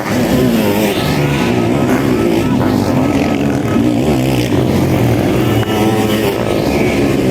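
Several sidecar motocross outfits' engines running hard together, their pitch rising and falling as the riders work the throttles.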